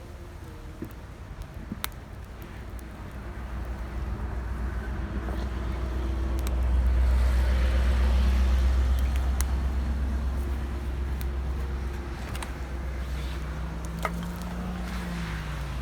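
Distant racing-car engines on the circuit, a low rumble with engine notes that swells to its loudest about halfway through and then fades as the cars pass. A few sharp clicks are heard over it.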